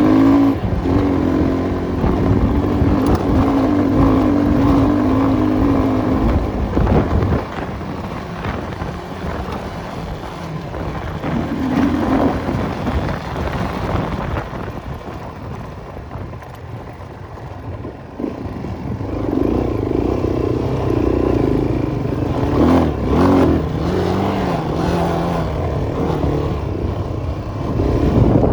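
Enduro motorcycle engine running and revving. It is loud for the first several seconds, quieter through the middle, and rises again in the second half with a wavering pitch.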